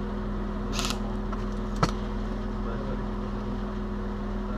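A 1989 Toyota 4Runner's engine idling, a steady low drone. A short hiss comes about a second in, and a single sharp click, the loudest sound, just before two seconds in.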